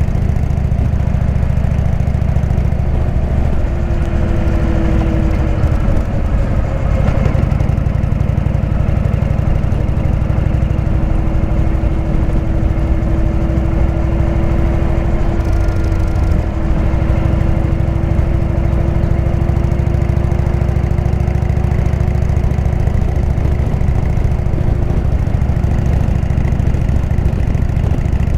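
Indian V-twin motorcycle engine running steadily through a Jekill & Hyde exhaust.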